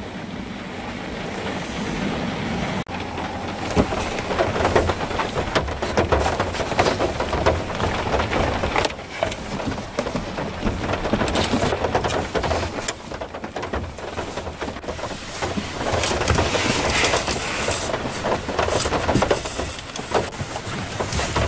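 Heavy rain falling, many drops hitting a hard surface in a dense, irregular patter over a low rumble, growing louder over the first few seconds.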